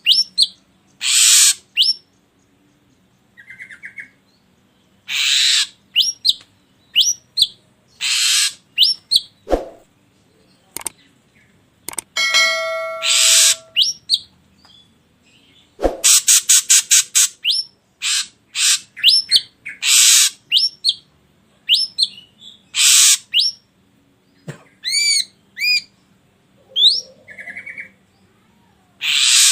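Ashy drongo calling: harsh rasping notes alternating with short whistled glides, with a fast chattering run of notes about halfway through.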